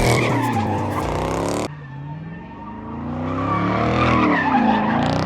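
A car's engine revving up and down while its tires skid and squeal, as in a burnout or drift. There is a sharp cut about a second and a half in, after which the engine revs rise and fall again.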